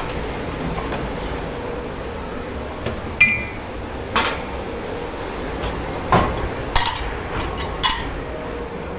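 Pots, plates and cutlery being handled and set down in a commercial dish pit: about five sharp clatters, the first ringing briefly, over a steady low rumble.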